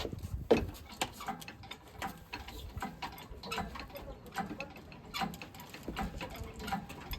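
Hand tools working on a truck's engine during its removal: a run of light metallic clicks and knocks, two or three a second and unevenly spaced, with a sharper knock about half a second in.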